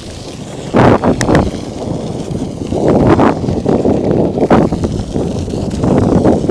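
Wind buffeting a helmet-mounted action camera's microphone while cycling, a rough low rumble with several sharp knocks and rattles from the bike going over bumps.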